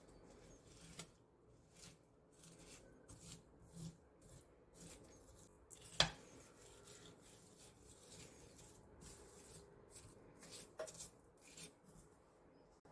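Faint handling sounds: soft rustling and scattered light clicks, with one sharper click about six seconds in.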